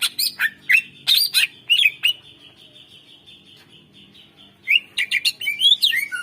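Green leafbird (cucak ijo) singing: two bursts of rapid, sharp whistled notes that slide up and down, separated by a pause of about two and a half seconds. A faint steady high tone hangs in the background.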